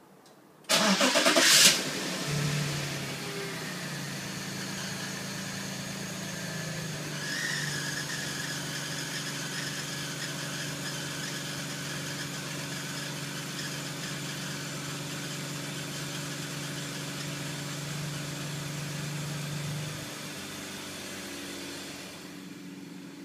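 BMW E46 325Ci straight-six cranked by the starter and catching about a second in, then running at a fast cold idle. A thin high squeal joins a few seconds later and carries on steadily: the recurring cold-start squeal that dealer visits have not cured. Near the end the idle steps down.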